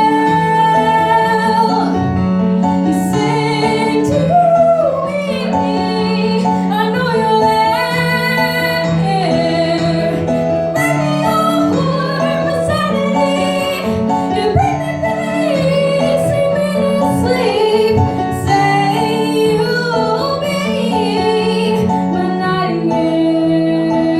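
Live music: a young girl singing a slow melody with instrumental accompaniment, the notes held and gliding between pitches.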